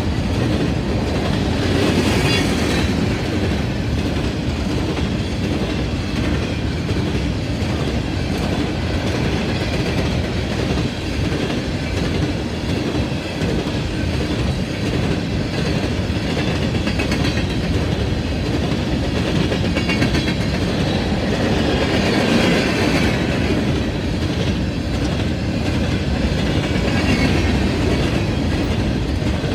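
Hopper cars of a long freight train rolling steadily past, the wheels clattering rhythmically over the rail joints with a continuous rumble. A couple of higher-pitched wheel squeals rise briefly, about two seconds in and again around twenty-two seconds.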